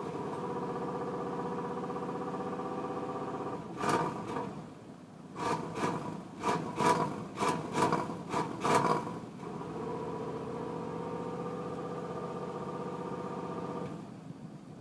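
A 1990 Cadillac's V8 being cranked over on a cold start: the starter turns it steadily, and the engine coughs once about four seconds in, then fires in a string of sharp coughs for a few seconds without catching. The cranking then goes on until it stops near the end. This is a hard start, a fault the owner puts down to the idle air control.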